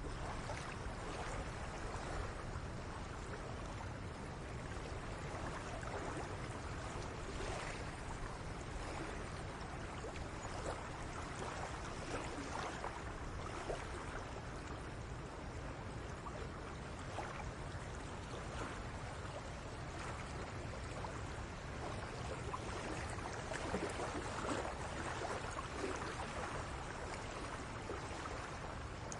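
Shallow seawater lapping and trickling gently at a cove shoreline, with many small, irregular splashes over a steady low rumble.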